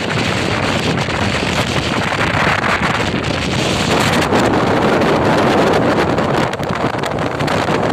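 Strong storm wind buffeting the microphone, with heavy surf underneath as a steady loud rush.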